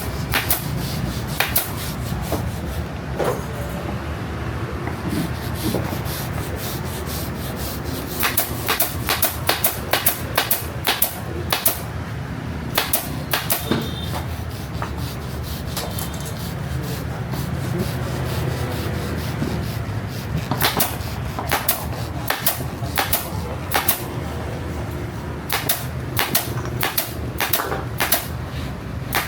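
Workshop hand-tool work: runs of sharp clicks and taps in quick clusters over a steady low hum.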